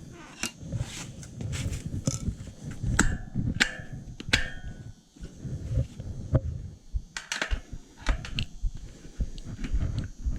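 Irregular clicks, knocks and short scrapes of hand work on a dirt bike's rear wheel and tire, metal tools against the rim and tire.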